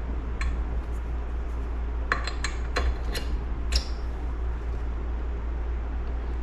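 Light metallic clinks and taps of small engine parts being handled and fitted, a scattered handful in the first four seconds, with a steady low hum underneath.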